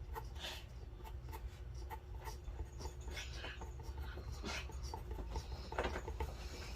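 A drawing tool scratching across paper in short, irregular strokes.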